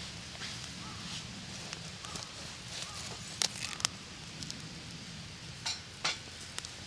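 Campfire burning with a steady low rush and a few sharp crackling clicks, two about three and a half seconds in and two more near the six-second mark.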